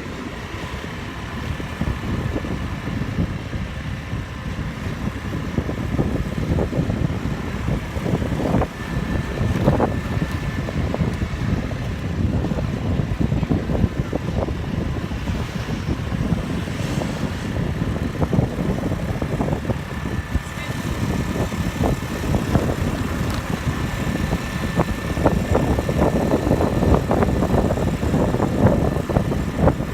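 Motorbike engine running with road and wind noise during a ride.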